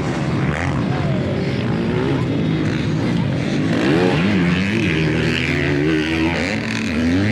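Several motocross motorcycle engines revving, their pitch rising and falling as the bikes race and change gear, the engines overlapping one another.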